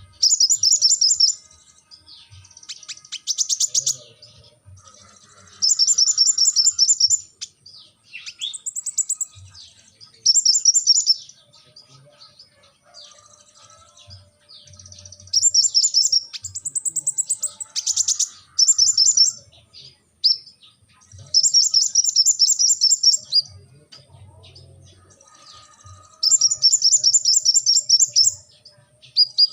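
Sunbird (the cage bird called 'kolibri ninja') singing in repeated high, rapid trilling phrases of a second or two each, with short pauses between.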